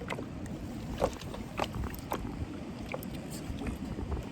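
Strong wind rumbling on the microphone, with several short sharp splashes and slaps of choppy water, the loudest about a second in.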